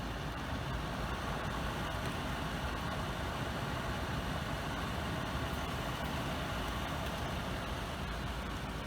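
Air purifier fan running on its strong setting: a steady rush of air.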